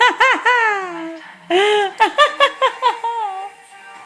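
A small child's high-pitched voice, first several rising-and-falling squeals, then a quick run of giggles and a falling squeal.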